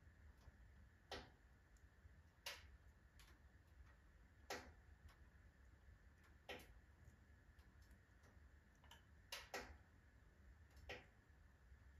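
Firewood burning in a wood stove's full firebox, crackling with irregular sharp pops, about seven clear ones plus smaller ticks, over a faint low rumble of the fire.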